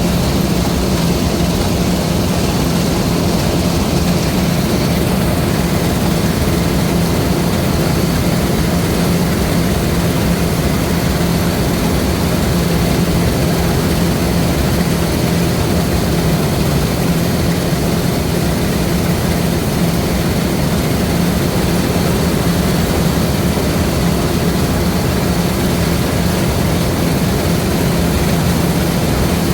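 LOVOL RG130 EVO rice combine harvester running steadily: an even engine drone with a strong low hum that holds without change.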